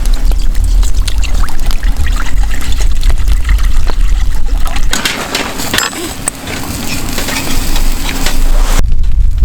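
Wood fire crackling, with wind rumbling on the microphone. About five seconds in, a steady hiss takes over and then cuts off suddenly near the end.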